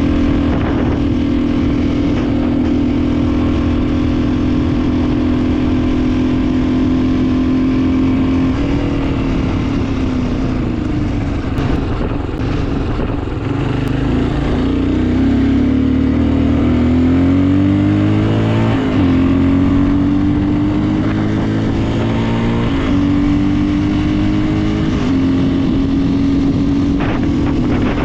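Small single-cylinder motorcycle engine running on a home-built CDI ignition, revs rising and falling as it is ridden. Its pitch drops about a third of the way in, climbs steadily for a couple of seconds past the middle, then falls sharply and steps up again twice near the end.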